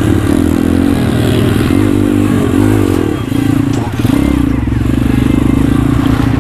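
Pit bike engine running under throttle, its pitch rising and falling as the throttle is worked, easing off briefly a little past halfway before picking up again.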